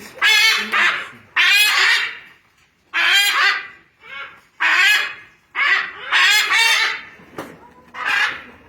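Blue-and-yellow macaws squawking: a series of about eight loud, harsh, raspy calls in quick succession.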